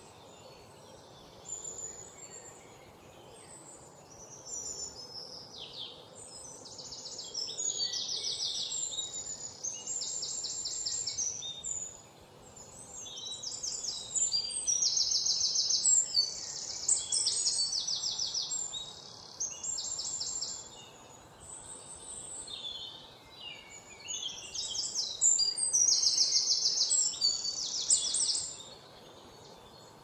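Songbirds singing: bouts of a few seconds of rapid, high trilled notes and short chirps, separated by quieter gaps, over a faint steady background hiss.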